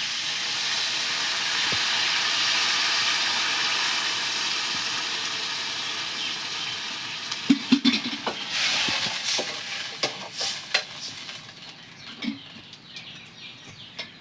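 Pork and greens sizzling hard in a hot pan with a steady hiss, just after water is added. The hiss fades after about six seconds, then come several sharp scrapes and knocks of a utensil stirring against the pan.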